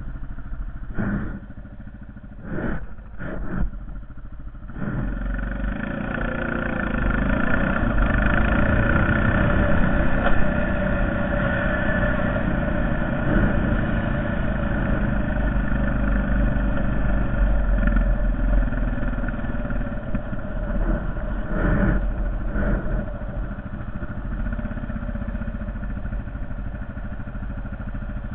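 Honda Foreman 450 ATV's single-cylinder engine running, quieter with a few short knocks for the first few seconds, then louder and steady from about five seconds in.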